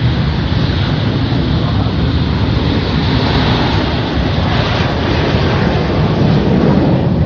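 Jet aircraft of a formation display team flying past, a loud continuous rushing engine noise that swells slightly near the end.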